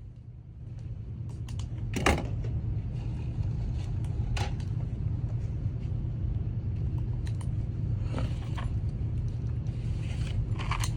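Steady low rumble of a running car that swells about a second in and then holds, with a few light knocks or clicks.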